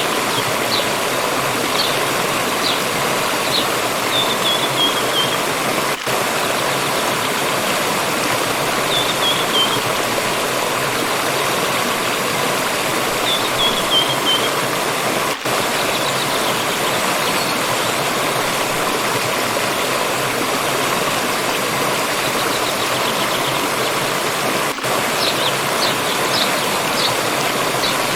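Water stream rushing steadily. A small bird sings short falling phrases three times over it, with quick high chirps near the start and again near the end.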